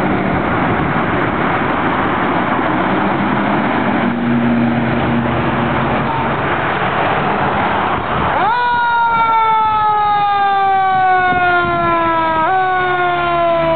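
A loud steady rushing noise. About eight and a half seconds in, a fire engine's siren rises sharply in pitch, then slowly winds down, with a short upward kick near the end.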